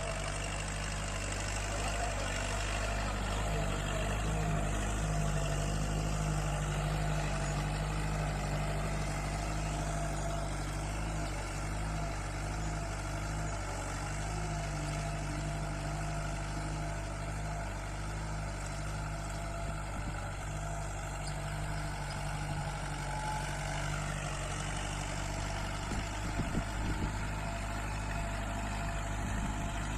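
Kubota tractor's diesel engine running steadily at a constant speed, with a few brief knocks near the end.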